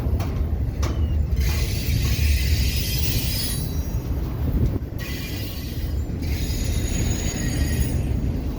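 Freight train cars rolling past with a steady low rumble, with two long stretches of high squealing from the wheels on the rails and a few sharp clacks of wheels over rail joints.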